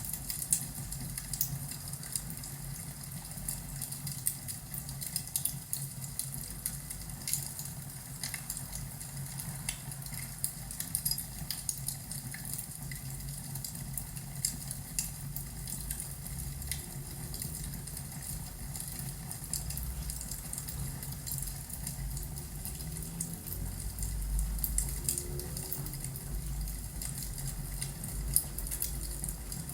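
Wood fire crackling in a fireplace: irregular small pops and snaps over a low rumble.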